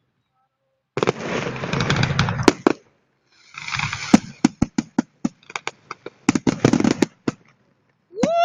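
Fireworks salute: after about a second of silence, a long rumbling burst, then a rapid run of sharp cracks and pops. Near the end comes a short pitched sound that rises and then falls.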